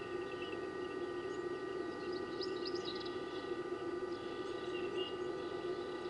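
Small birds chirping in short quick bursts, a flurry about two and a half seconds in and a brief call near five seconds, over a steady hum.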